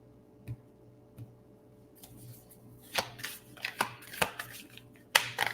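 Tarot cards being shuffled by hand: a couple of light taps, then from about two seconds in a quick run of sharp card clicks and slaps.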